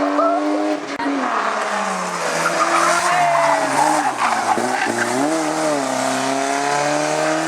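Race car engine at full effort: revs climb, fall sharply about a second in, rise and fall unevenly through the middle, then climb steadily again near the end, with tyres squealing.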